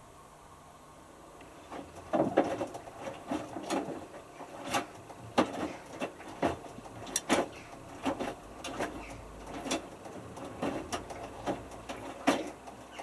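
Hotpoint Futura HF8B593 washing machine drum turning a small load of wet T-shirts: an irregular run of knocks, clicks and sloshes that starts about two seconds in and stops near the end.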